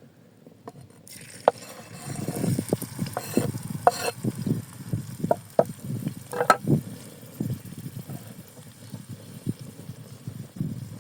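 Food frying in a hot pan: a sizzle starts suddenly about a second in, and a utensil stirs and scrapes against the pan, with repeated knocks and a few sharp clicks.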